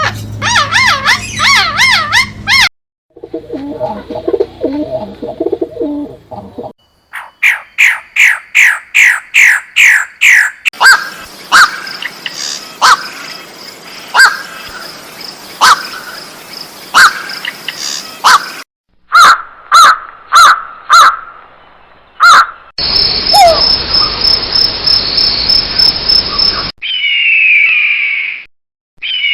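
A series of different birds calling and singing, one short recording after another with abrupt cuts between them: rapid repeated chirps, trills and runs of whistled notes.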